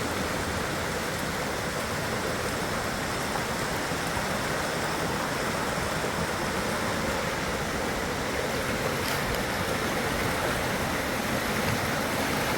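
Rushing river water: a steady, unbroken roar of fast-flowing rapids.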